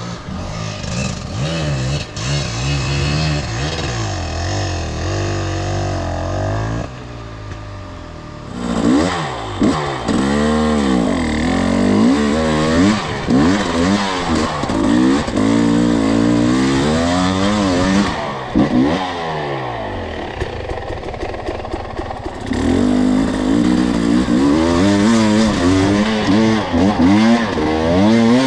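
Two-stroke enduro dirt bike engine under way on a trail, its revs rising and falling over and over with the throttle. It dips briefly about a quarter of the way in and runs steadier for a few seconds after the middle before revving up again.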